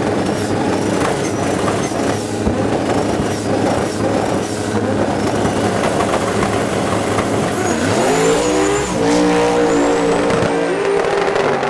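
Racing car engines running hard at high revs. About eight seconds in, one engine revs up sharply, and its pitch then steps a couple of times.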